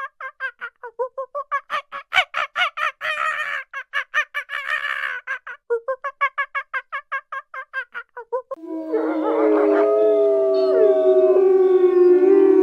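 Farmyard birds calling: a fast run of short, pitched calls, about six a second, then, about eight and a half seconds in, several long, wavering cries that overlap.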